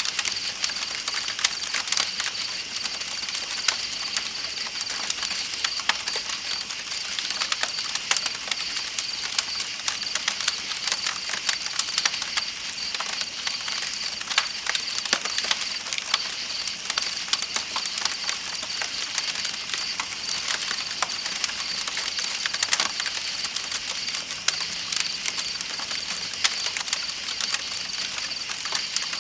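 Campfire crackling with frequent irregular pops, layered over the steady rush of a flowing river and a continuous high trilling of night insects.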